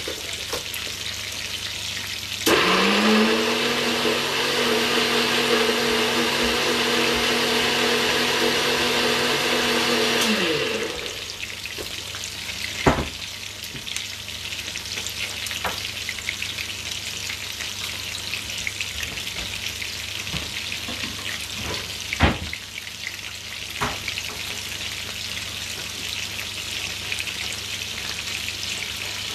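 Chicken pieces frying in oil in a pan, a steady sizzle as the meat's water cooks out before browning. From about two seconds in, an electric motor whirs loudly for about eight seconds, its pitch rising as it starts and falling as it stops. A few sharp knocks come later.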